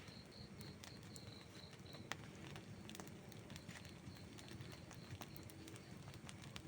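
Quiet outdoor wood fire crackling, with scattered small pops, a sharper pop about two seconds in, and a low rumble of burning underneath. A faint high chirp repeats about four times a second for the first two seconds, stops, and comes back about four seconds in.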